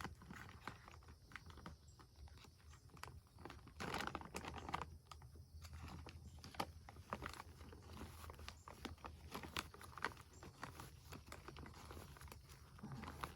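Faint, irregular clicking and rustling from someone handling things and moving about, with a louder cluster about four seconds in.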